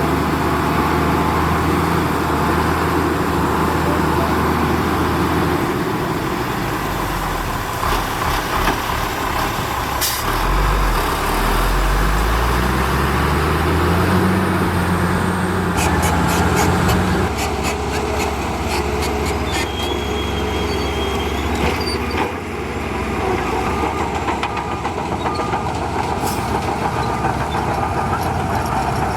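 Diesel engines of heavy earthmoving machinery running under load, with one engine revving up about ten seconds in and scattered sharp knocks and clanks through the middle.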